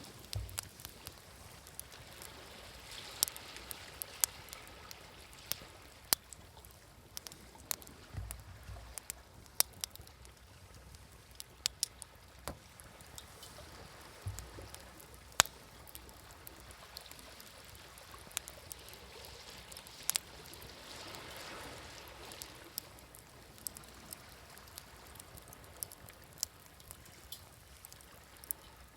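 Wood campfire crackling, with sharp pops every second or so, over a soft wash of waves that swells and fades.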